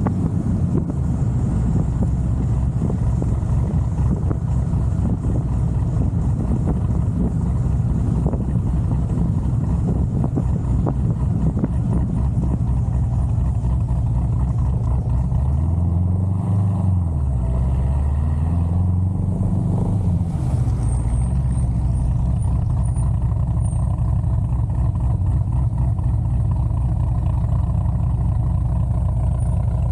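Chevrolet Corvette C6 Z06's big-cam LS7 7.0-litre V8 running with a choppy, uneven low note. About halfway through, the revs rise and fall twice.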